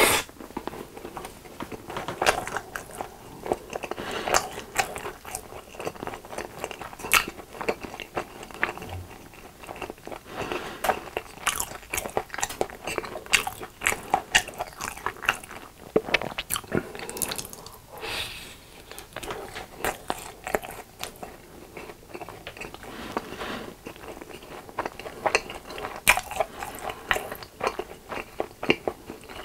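Close-miked chewing of a crunchy crumb-coated hot dog on a stick: the crust crackles and crunches between the teeth with wet mouth sounds, in a dense irregular run of crunches. A loud crunch comes right at the start.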